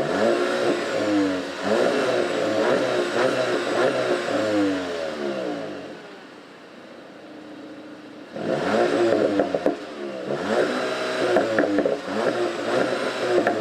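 VW Golf GTI TCR's 2.0-litre turbocharged four-cylinder accelerating hard, its pitch climbing and dropping back several times with quick gear changes. It eases off for a couple of seconds around the middle, then pulls again from about eight seconds in with sharp pops and crackles.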